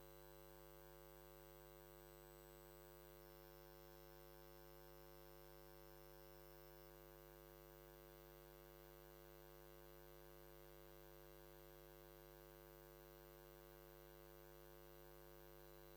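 Near silence with a faint, constant electrical hum.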